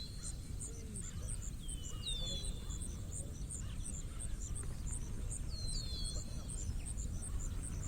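Small birds calling outdoors: short high chirps that fall in pitch, every few seconds, over a steady high pulsing call repeated about four times a second, with a constant low rumble underneath.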